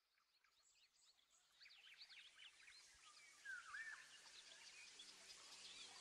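Faint birdsong fading in and growing louder: many quick chirps and whistles, one clear rising-and-falling call about three and a half seconds in, over a faint steady low hum.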